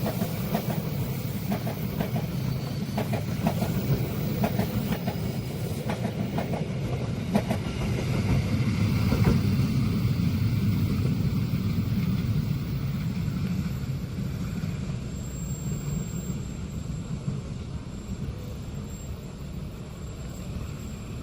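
Train running past, its wheels clacking over rail joints in a run of sharp knocks for the first several seconds, over a low rumble that swells about nine seconds in and then fades away.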